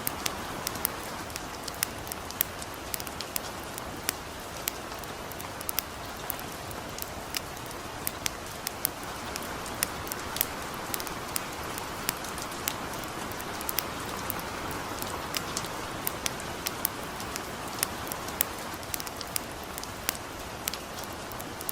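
Steady light rain hiss mixed with a campfire crackling: sharp, irregular pops and snaps, roughly two or three a second, over the even patter.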